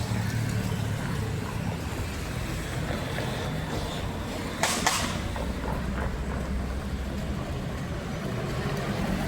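A motor vehicle engine running steadily with a low rumble, and a short hiss about five seconds in.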